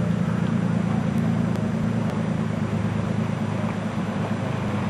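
A motor vehicle's engine running steadily, a constant low drone with a noisy rush over it.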